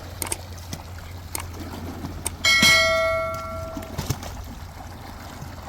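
A metal vessel struck once about two and a half seconds in, ringing with a clear bell-like tone that fades over a little more than a second. Small knocks and clinks come before and after it.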